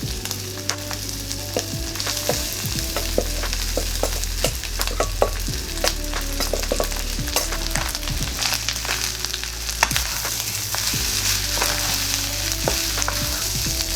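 Rice and barbecue pork sizzling in a hot wok while being stir-fried, the spatula clicking and scraping against the wok many times. Quiet background music with held notes plays underneath.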